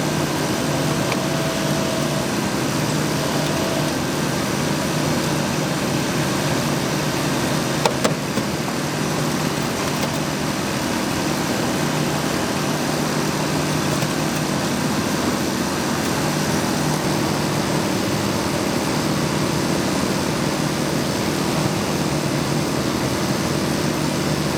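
Steady drone of an idling engine, unchanging throughout, with one sharp click about eight seconds in.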